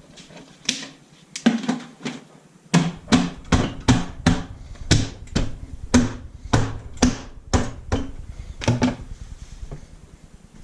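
Repeated sharp hammer strikes on engine parts, about two to three knocks a second, starting about a second in and stopping near the end.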